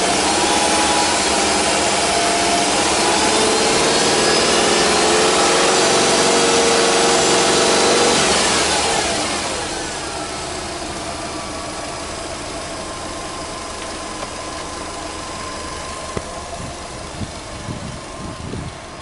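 Subaru Legacy 2.0GT spec.B's turbocharged EJ20 flat-four engine running at raised revs, held steady and creeping up, then dropping back to a lower, quieter idle about eight or nine seconds in. A few light knocks near the end.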